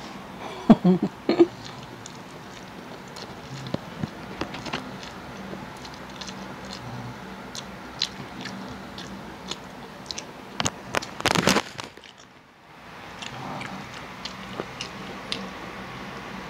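Close-miked chewing of a mouthful of rice and fried food eaten by hand, with scattered small wet clicks and smacks. A louder cluster of mouth sounds comes a little past halfway.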